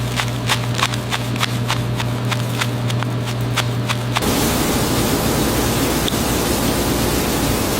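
Machine hum with a rapid, even clicking, about five clicks a second, that cuts off abruptly a little past four seconds in and gives way to a steady hiss-like noise.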